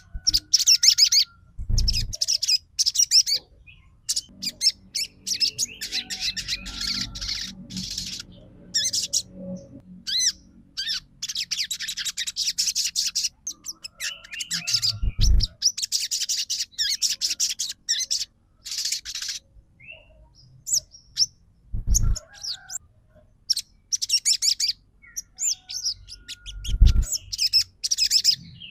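Sogon songbird singing in quick, high, chattering trills, phrase after phrase with short pauses between: 'trotol' song used as a lure to set other sogon singing. A few dull thumps come in among the phrases.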